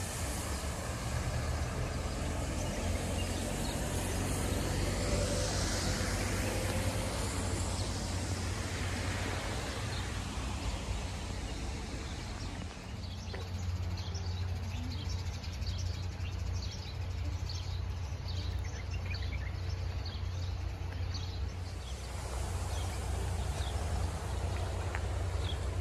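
Wind rushing and buffeting the microphone in a steady noise. From about halfway through, birds chirp again and again in short, quick calls over it.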